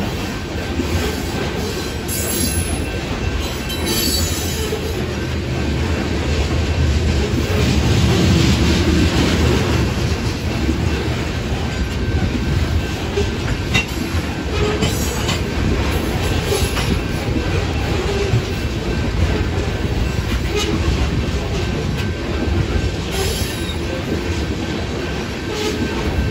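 Train cars rolling past, a steady heavy rumble with wheels clicking over the rail joints and brief wheel squeals around the start and near the end.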